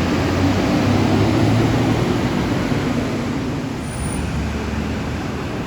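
Scania K230UB Euro 5 bus heard on board: its five-cylinder diesel engine running steadily under a broad hum of road and cabin noise, easing off slightly about two seconds in.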